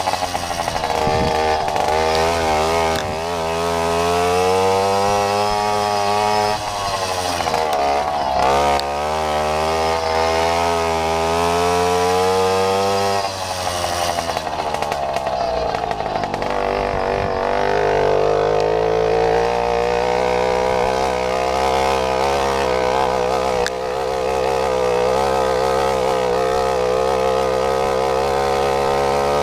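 Babetta moped's small two-stroke single-cylinder engine running under load, its pitch climbing over several seconds, dropping off sharply twice and climbing again, then holding at higher revs.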